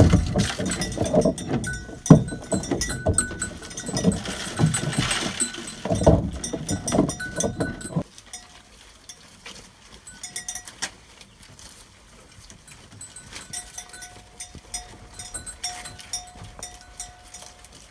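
Goats calling and moving about, with knocks and handling noise. About eight seconds in, the sound cuts off suddenly to a much quieter passage of faint clicks and thin held tones.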